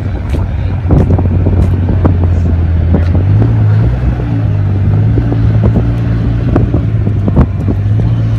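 Black GT-R's engine idling steadily, its low exhaust note stepping up slightly about three seconds in. Occasional short knocks on the microphone.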